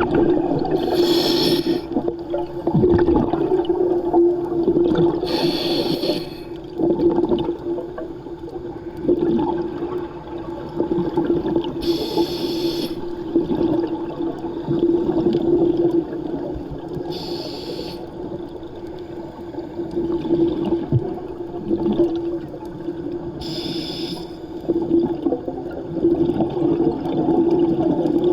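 Underwater sound: a scuba diver's exhaled bubbles bursting out in short, hissy rushes about every five to six seconds, over a steady low hum.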